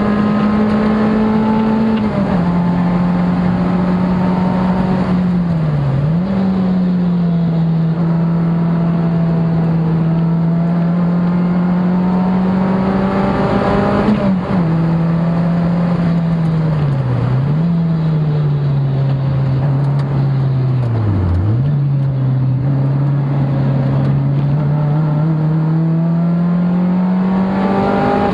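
Car engine heard from inside the cabin during a circuit lap, running at a steady pitch under load. The revs step down sharply about two seconds in and again halfway through, and dip and jump back up several times as gears are changed, then climb steadily near the end.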